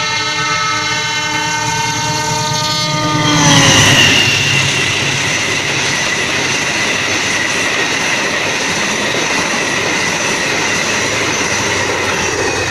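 Argo Wilis express train passing at speed. The diesel locomotive's multi-tone horn blows as it approaches and drops sharply in pitch as the locomotive goes by about three seconds in. Then comes the loud, steady rush of the carriages running past.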